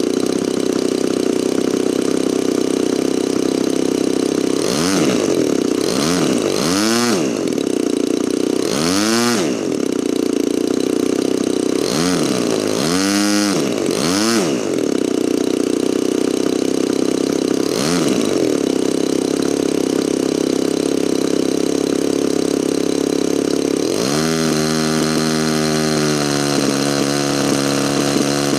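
DLE 35RA single-cylinder two-stroke gasoline model-airplane engine running on its first startup, with the throttle blipped about six times so the pitch rises and falls quickly. From about 24 s the engine settles into a lower, steadier note.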